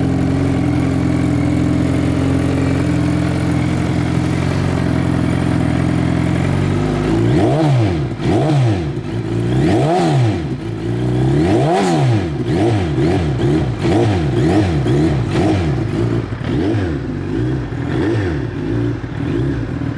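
2013 Suzuki Hayabusa's 1340 cc inline-four running through a full Brock's 4-into-1-into-2 exhaust: idling steadily, then from about seven seconds in revved repeatedly, three big revs followed by a string of quicker, shorter blips of the throttle.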